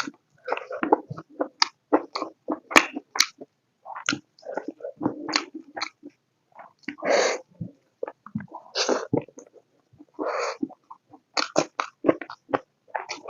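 Close-miked mouth sounds of a person eating pork and potato curry: wet chewing and lip smacks in quick, irregular clicks, with three longer, noisier sounds in the second half.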